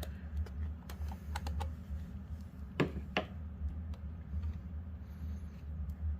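Screwdriver tip clicking against the plastic panel and clips of a Theragun massage gun as the panel is pried at, a series of light clicks with two louder ones around three seconds in. A steady low hum runs underneath.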